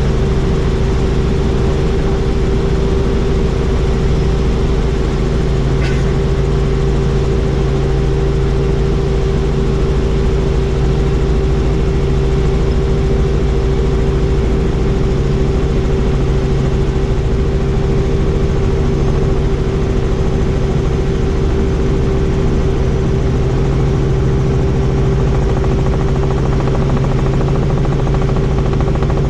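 Helicopter in flight heard from inside the open cabin: a steady engine and rotor drone with a constant hum that holds level.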